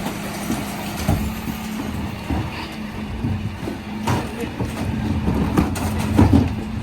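Dennis Elite 6 refuse truck running with a steady hum, with irregular knocks and clatters over it.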